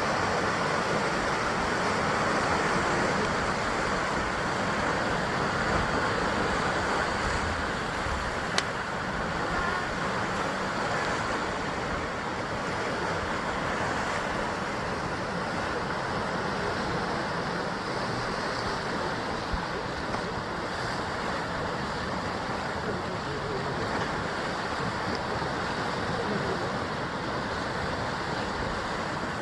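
Sea surf breaking and washing against a rocky basalt shore, a steady, unbroken rush of water. A single brief click sounds about eight seconds in.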